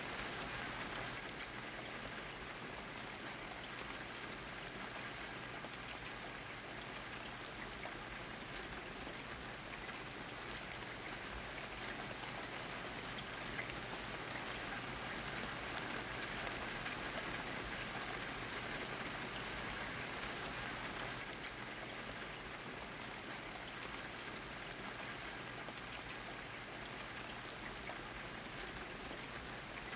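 Steady rain falling and pattering on surfaces, with scattered individual drops.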